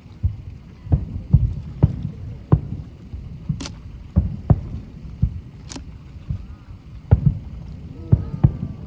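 Fireworks shells bursting over a lake: a rapid, irregular run of low booms, several a second, with two sharper cracks about three and a half and six seconds in.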